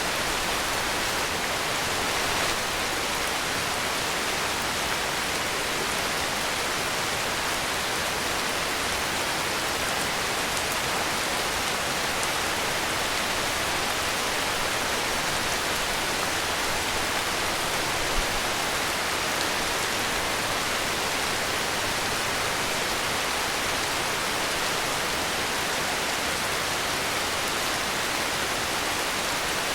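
Heavy rain falling steadily, an even, unbroken hiss of rainfall. A single soft low thump comes about eighteen seconds in.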